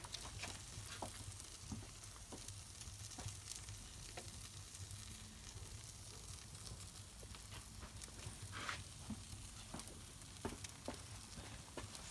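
Wood fire crackling and hissing in a wood-fired pizza oven, with a steady hiss and scattered sharp pops.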